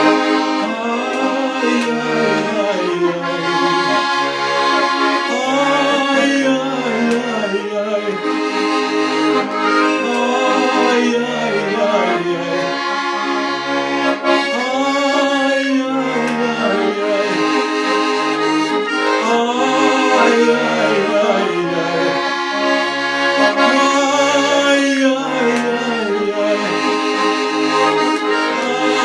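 Accordion playing an instrumental melody over a repeating bass accompaniment, with no singing.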